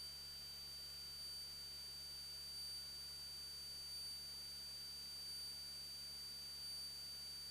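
Faint, steady high electronic whine with a low hum underneath: line noise on an aircraft intercom or audio feed, with no engine or voices coming through.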